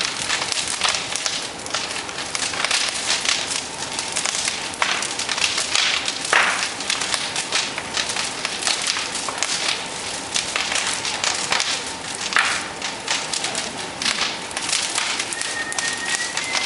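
Large bonfire crackling, with dense snaps and pops throughout; a faint steady high tone comes in near the end.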